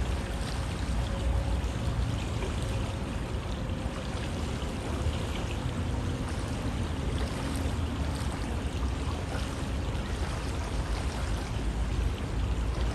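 River water flowing steadily, a continuous rushing with small splashes and gurgles.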